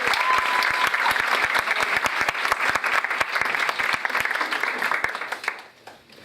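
Live theatre audience applauding with dense clapping, dying away about five and a half seconds in.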